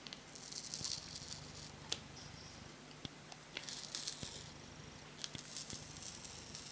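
A plastic adhesive strip being slowly peeled from under a laptop screen, giving a faint tearing crackle in two spells, with small clicks from handling.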